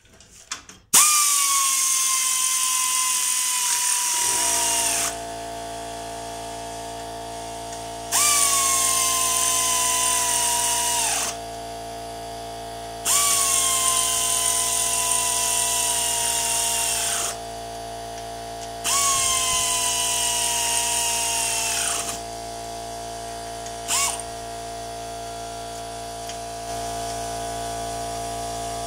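Pneumatic air ratchet spinning bolts in, in four runs of about three to four seconds each. Each run whines high and sags in pitch at its end as the bolt seats, and a short blip comes near the end. About four seconds in, an air compressor motor starts and runs steadily underneath.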